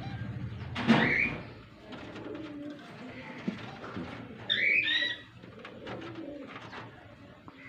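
Pet doves cooing softly, mixed with short high chirps: a loud rising call about a second in and a bright chirping burst around five seconds in.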